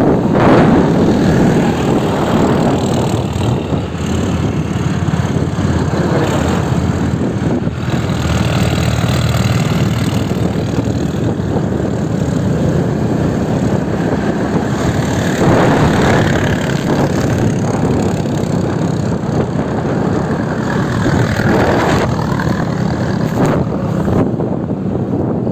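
Diesel farm tractors hauling sugarcane loads along a road, their engines running loud and steady, swelling twice as tractors pass, about a third of the way in and again near the end.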